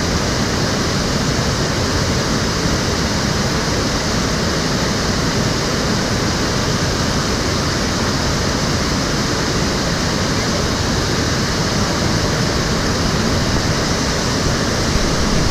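Stream water flowing, a steady, even rush with no break.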